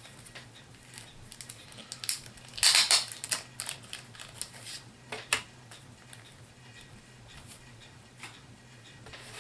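Handling noise from plastic HeroClix miniatures and their packaging: a dense cluster of clicks and rattles about two and a half seconds in, then a few sharp clicks, dying away after about five seconds.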